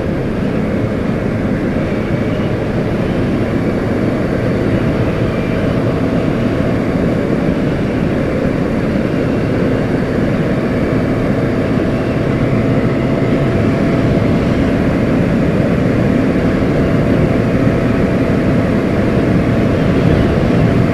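Honda CBR600RR inline-four engine running at a steady cruise, mixed with a constant rush of wind noise from riding.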